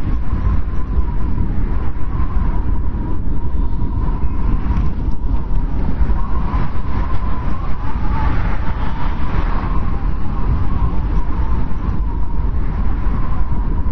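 Strong wind blowing steadily in a low rumble, with a faint wavering whistle above it.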